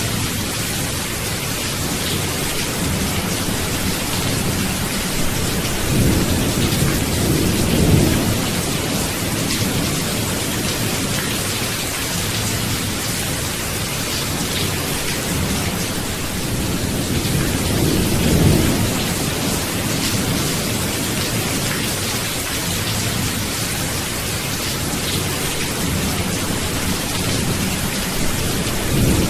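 Steady rain with two low rolls of thunder, one building to a peak about a quarter of the way in and another just past the middle.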